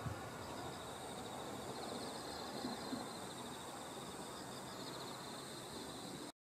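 Faint, steady distant rush of a Shinkansen train running along an elevated viaduct, with a high, rapidly pulsing chirp over it. The sound cuts off abruptly near the end.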